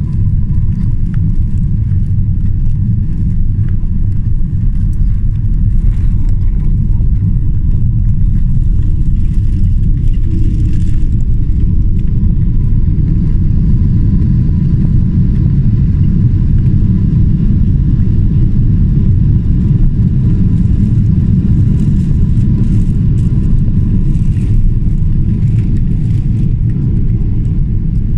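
Cabin noise inside a Boeing 777-300ER: a steady low rumble from its GE90 engines and airframe, heard from a seat at the rear of the cabin, with a faint steady whine above it.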